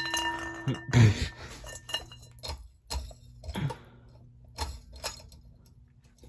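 Hunter Discovery ceiling fan parts being handled: a sharp metallic clink that rings for about a second, then a loud clatter about a second in, followed by scattered knocks and clicks.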